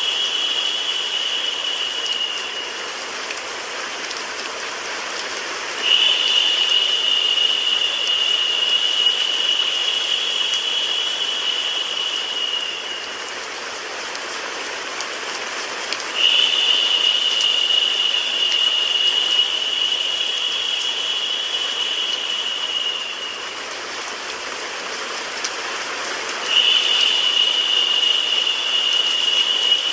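Steady rain hiss mixed with white noise, with a high-pitched whine that comes in sharply, holds about seven seconds and fades, repeating about every ten seconds.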